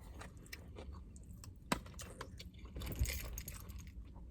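A person chewing food close to the microphone, with small wet mouth clicks and one sharper click about a second and a half in.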